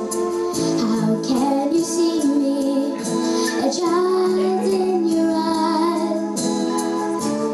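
A song with children and a woman singing over instrumental accompaniment.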